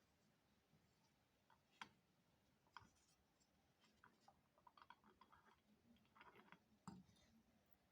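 Near silence with a few faint, sharp clicks and some light scattered ticking.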